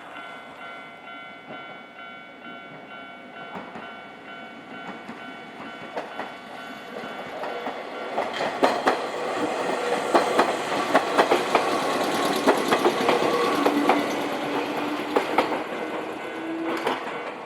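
A Nankai Kada Line electric train passing over a level crossing. It grows louder from about seven seconds in, and its wheels clack sharply over the rail joints for most of the second half.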